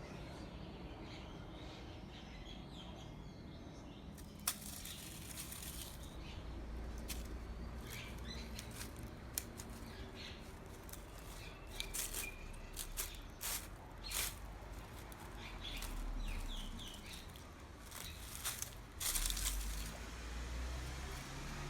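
Scattered short rustles and clicks over a steady low rumble, coming more often in the second half, with a few faint chirps.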